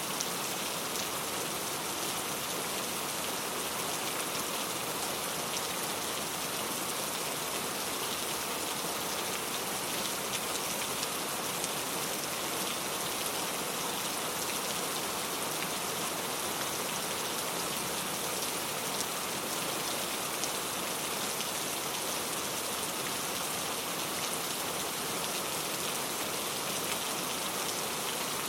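Heavy rain falling steadily, a dense even hiss of drops with fine patters on a hard surface.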